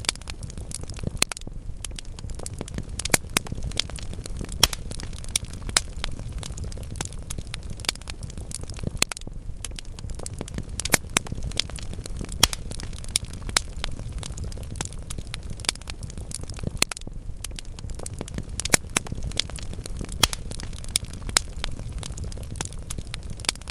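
Wood fire in a fireplace crackling, with frequent sharp irregular pops and snaps over a low steady rumble of the burning logs.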